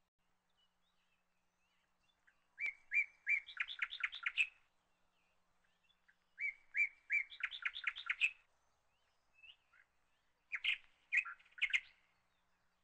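A bird singing three short song phrases a few seconds apart. Each phrase opens with a few notes at one pitch and runs into a quick series of higher notes; the last phrase is shorter.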